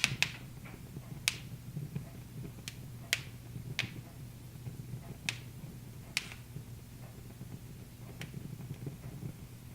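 Wood fire crackling in a fireplace: sharp, irregular pops, about eight of them, over a steady low background sound.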